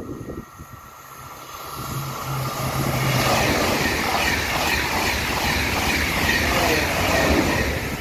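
A double-deck TGV high-speed train passing through fast with a rushing noise of wheels and air. It builds over the first couple of seconds, with a low steady hum as it approaches, stays loud for about four seconds as the cars go by, and eases off near the end.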